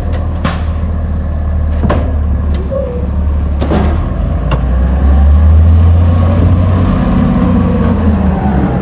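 Garbage truck engine running with a heavy low drone, getting louder about five seconds in, with several sharp metallic clanks.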